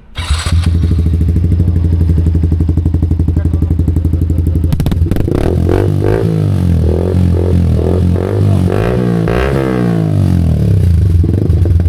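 Yamaha R15 V4M motorcycle engine idling steadily, then revved up and down several times in quick blips before settling back to idle.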